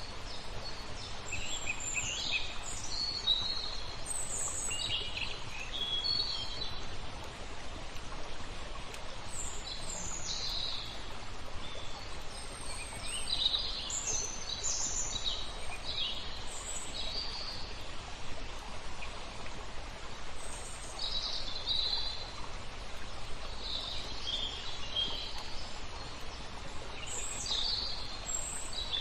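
Small songbirds chirping in short high phrases every few seconds, over a steady rush of flowing water.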